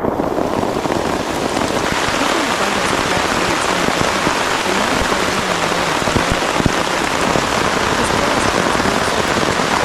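Heavy rain falling steadily, a dense continuous patter that grows a little fuller about two seconds in.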